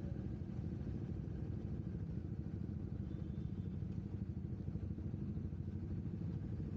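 Motorcycle engine running steadily, a dense low rumble with a fast flutter.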